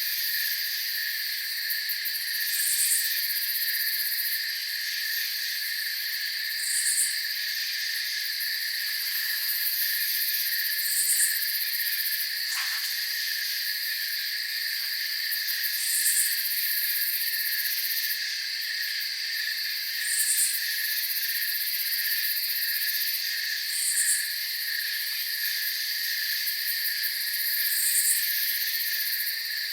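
Night chorus of crickets trilling steadily in a dense high-pitched layer, with a short, higher chirp repeating about every four seconds over it.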